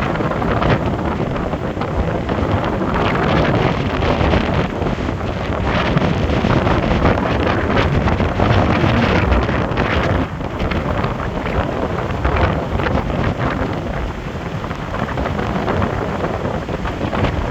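Strong storm wind buffeting the microphone, with the rush of storm-driven waves on the shore beneath it. The gusting rises and falls with no let-up.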